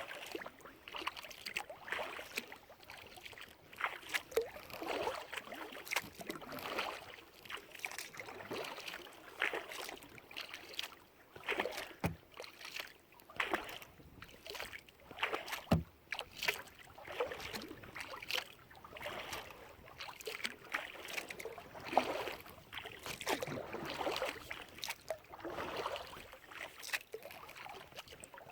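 Kayak paddle strokes through the water, a swishing splash about every two seconds with dripping between, and a few sharp knocks.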